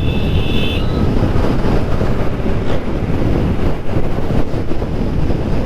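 Motorcycle riding noise: wind buffeting the microphone over the engine and tyre rumble. A short high steady tone sounds in the first second and cuts off suddenly.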